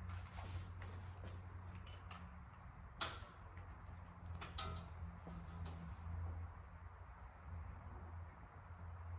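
Quiet background with a steady low hum and a faint, steady high-pitched whine, broken by two sharp clicks, about three and four and a half seconds in.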